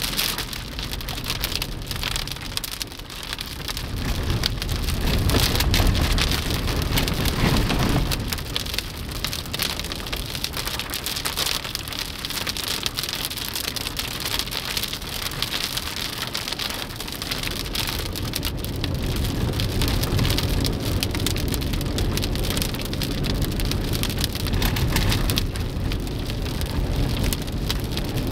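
Moderate to heavy rain falling steadily, a dense hiss of drops. A low rumble swells in a few seconds in and fades again.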